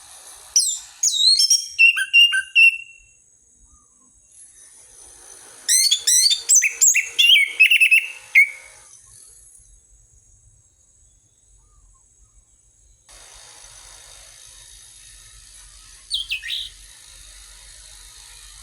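Orange-headed thrush (anis merah) singing two loud phrases of quick sweeping whistles, one about half a second in and one around six seconds in, then a short single call near the end.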